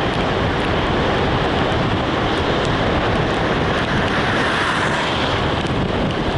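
Steady rushing wind and road noise from a moving vehicle, with no breaks or changes.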